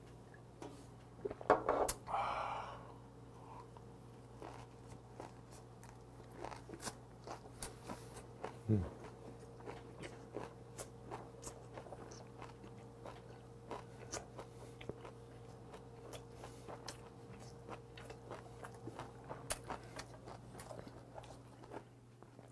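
Close-miked chewing of hijiki seaweed and dried pike: small, irregular wet mouth clicks and soft crunches. A loud breathy exhale about two seconds in after a shot of soju, and a brief low falling 'mm' near nine seconds in. A steady faint hum lies underneath.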